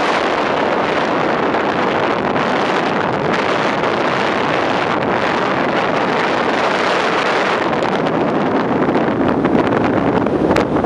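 Heavy wind noise buffeting the microphone in a moving car: a loud, steady rushing that grows a little louder near the end.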